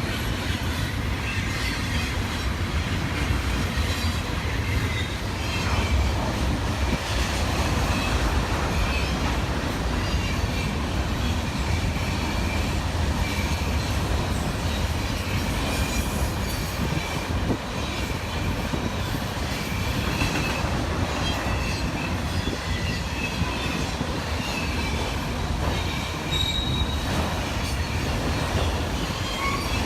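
Freight train cars rolling by on steel rails: a steady low rumble with intermittent high-pitched wheel squeal.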